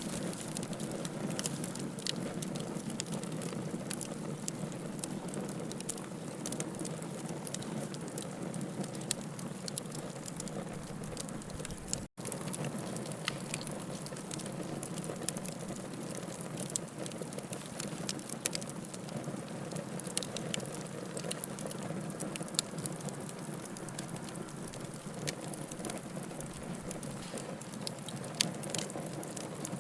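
Wood fire burning in a fireplace, crackling with frequent sharp pops over a steady low rush of flame. The sound cuts out completely for a moment about twelve seconds in.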